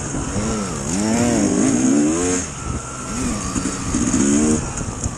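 Dirt bike engine revving under throttle on a trail, its pitch dropping and climbing again several times as the rider rolls off and back on the gas. A steady high hiss of wind runs underneath.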